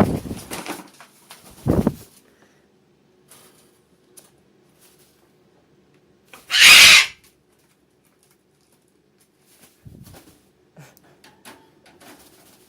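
A pet bird gives a single loud, harsh squawk lasting about half a second, a little past halfway through. Low knocks come near the start, and a faint steady hum runs underneath.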